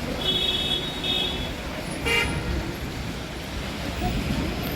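Vehicle horn tooting twice in short blasts, then a brief sharper beep about two seconds in, over a steady rumble of road traffic and engines.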